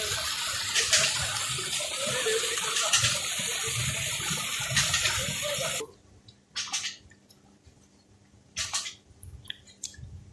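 Steady rushing noise that cuts off suddenly about six seconds in, followed by a few short, separate noises.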